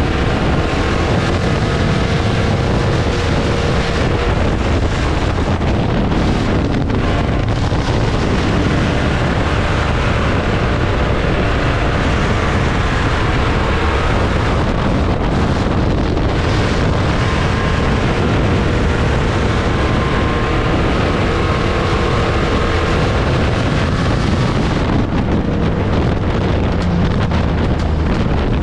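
Dirt-track race cars' engines running hard as they race around the oval, a dense, steady engine noise with wind buffeting the microphone.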